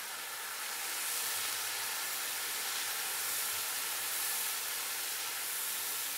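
Sliced potatoes frying in oil with spices and a splash of water in a karahi, sizzling with a steady hiss as they are stirred.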